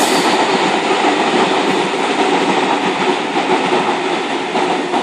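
Sydney Trains K-set electric train passing through the station: a steady, loud rush of wheel and track noise.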